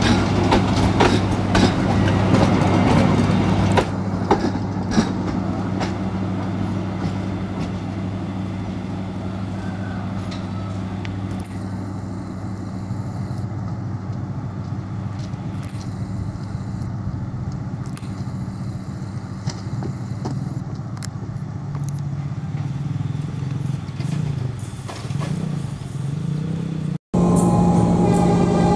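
Passenger train passing close, wheels clacking over the rail joints for the first few seconds, then a steady low diesel drone as it draws away. Near the end the sound cuts off suddenly and a louder steady sound with several held tones begins.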